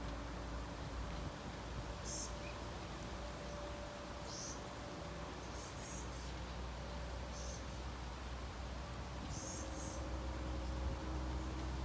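Small birds giving short high-pitched chirps, about seven scattered at uneven intervals, over a steady low outdoor rumble.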